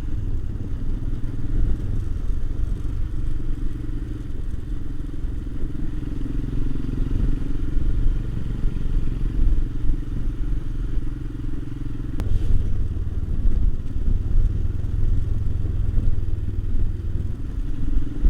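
Royal Enfield Himalayan's single-cylinder engine running as the motorcycle is ridden along a road. About twelve seconds in there is a click and the engine note changes, sounding heavier afterwards.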